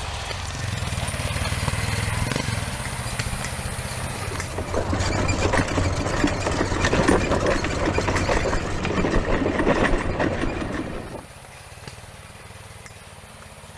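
A vehicle engine running with a steady low hum. It grows louder through the middle, then drops away sharply about eleven seconds in.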